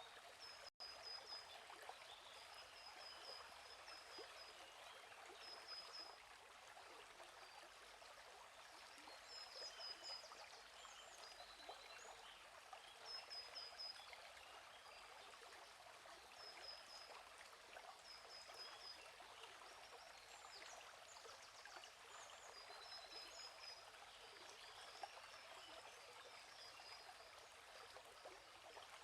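Quiet, steady flowing stream with small birds repeating short, high chirping trills over it. The sound drops out for an instant about a second in.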